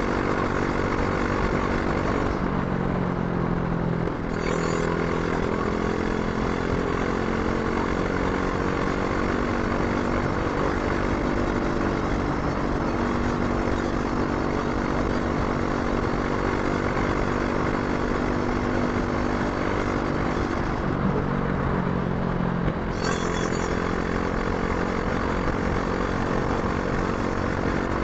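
Brixton Crossfire 500's parallel-twin engine running steadily under way while riding. Twice, a couple of seconds in and again past the two-thirds mark, the engine note drops for a second or two and then settles, each time with a short click.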